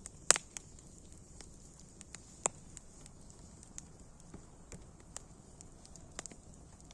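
Wood fire crackling: irregular sharp pops and snaps over a soft hiss. The loudest pop comes just after the start, and another strong one about two and a half seconds in.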